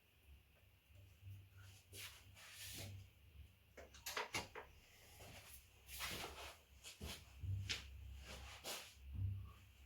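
Scattered rubbing, scraping and knocking of parts being handled, several short strokes a second apart with a few louder knocks, over a faint low hum.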